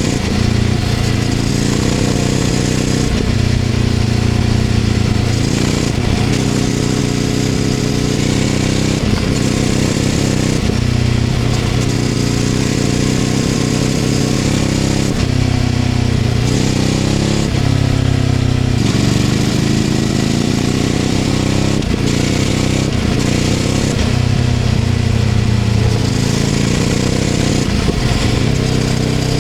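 Ducati Scrambler 800's air-cooled L-twin engine running through a LeoVince LV-10 exhaust while riding, its note rising and falling several times with the throttle.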